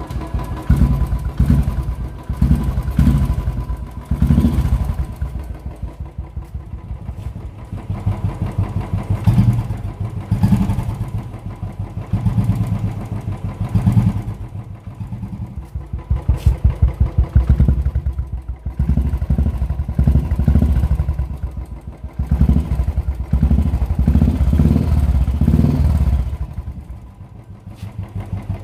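Royal Enfield Bullet single-cylinder engine running through the official RE peashooter exhaust with its DB killer removed. It is revved up in several waves and settles back between them. The exhaust note is a deep thump and bass.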